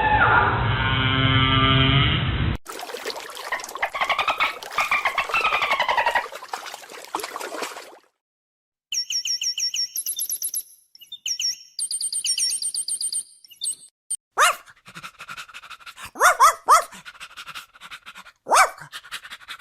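A run of different animal calls, one after another. A pitched call opens it, rising and falling sweeps follow, then high repeated chirps come after a short break, and scattered clicks and short calls close it.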